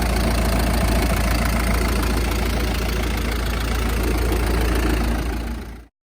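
Diesel engine of a TCM forklift idling steadily, cutting off abruptly near the end.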